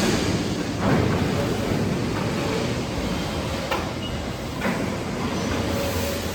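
Steady mechanical rumble with a few sharp knocks, about one second in and twice more near the middle.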